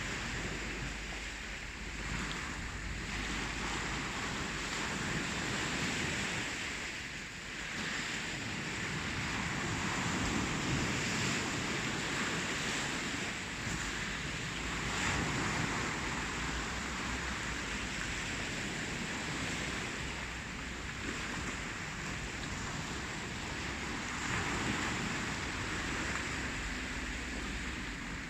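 Ocean surf: waves breaking and washing on the shore in a continuous rush that swells and eases every few seconds.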